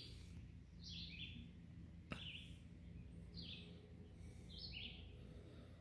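A bird calling faintly: a short, high two-part note repeated about once every second. A single sharp click sounds about two seconds in.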